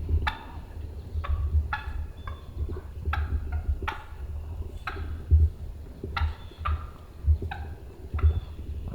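Wild turkey calls: a dozen or so short, sharp notes at irregular intervals, with low thumps underneath.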